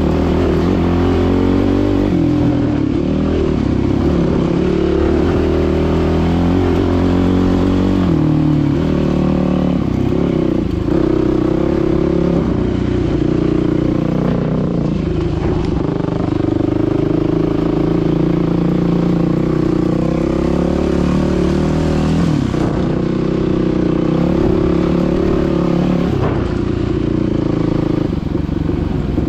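Dirt bike engine running while being ridden, its revs rising and falling with the throttle.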